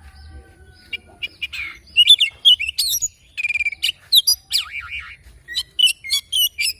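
An oriental magpie-robin (kacer) singing: after a quiet first second, a fast, varied run of chirps, whistles and trills.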